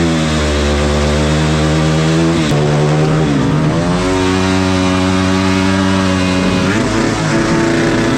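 Dirt bike engine running hard under throttle, holding a steady pitch. Its pitch dips briefly and climbs back a few times, as with gear changes or throttle blips.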